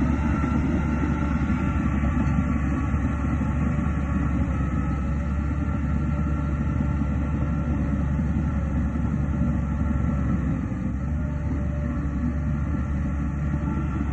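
Heavy diesel earthmoving machinery running steadily with a deep rumble, easing a little about ten seconds in.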